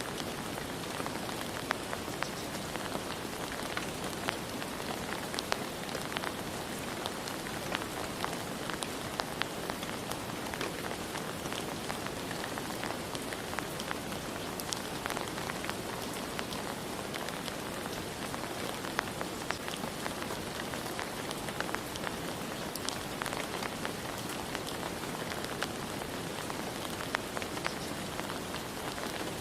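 Steady rain falling, a dense hiss with many individual drops ticking against a surface.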